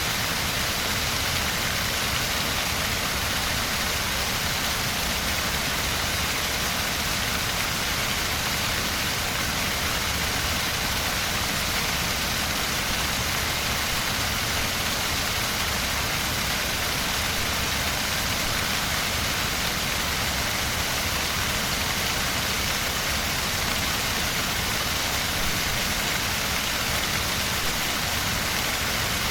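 River rapids: fast water rushing over rocks in a steady, unbroken roar.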